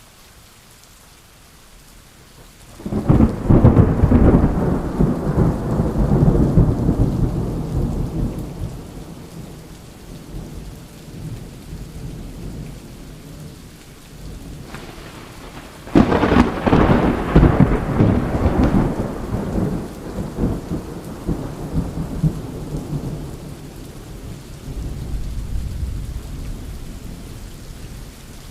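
Steady rain with two loud peals of thunder, the first about three seconds in and the second, with a sharp crack, about halfway through; each rolls and rumbles for several seconds before fading back under the rain.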